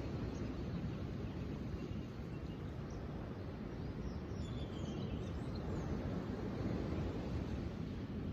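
Steady low rushing outdoor nature ambience, with a few faint high bird chirps around the middle.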